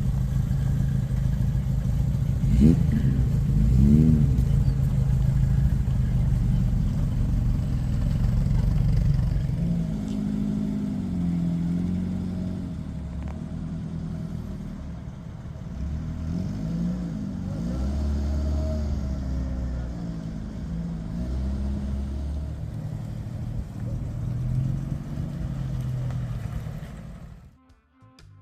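Car engine idling steadily, with people talking nearby; after about ten seconds the engine hum drops back and the voices carry on.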